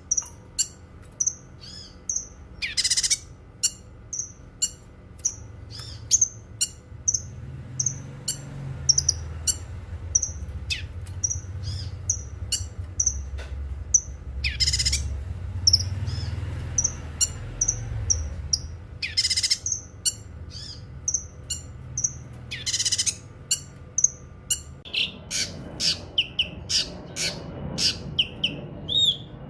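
A cucak kinoi singing: a steady stream of short, sharp, high chirps, broken every few seconds by louder harsh calls, with a quicker run of notes near the end. A low rumble sits underneath through the middle.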